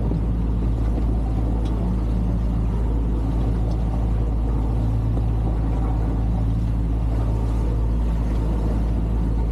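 Sailing yacht's engine running at a steady speed, a constant low drone with a rumble of wind and water underneath.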